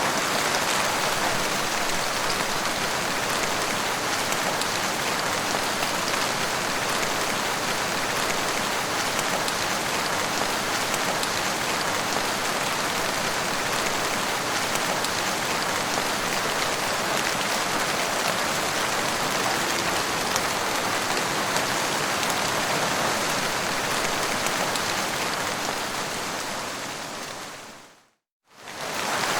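Steady rain falling, a dense even hiss of drops, that fades out near the end, goes silent for about half a second, then starts again.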